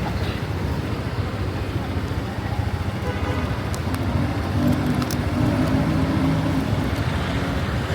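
Street traffic: vehicle engines running steadily, with a pitched engine note that grows stronger about four seconds in and a few sharp clicks.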